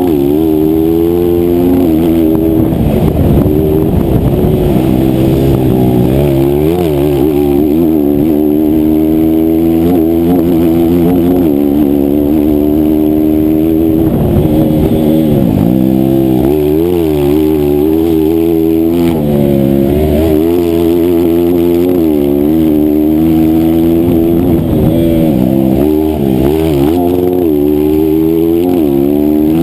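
A 160cc single-cylinder race motorcycle engine held at high revs, its pitch climbing steadily and then dropping sharply several times as the rider shifts down and opens the throttle again.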